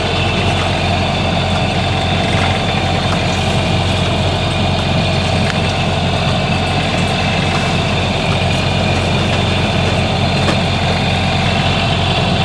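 A sailboat's inboard diesel engine running steadily at constant speed, heard aboard as a low, even hum.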